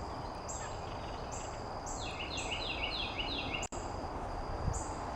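Outdoor insect chorus: high short calls repeating about once or twice a second over a steady high-pitched drone. A bird sings a quick run of about half a dozen falling notes around two seconds in.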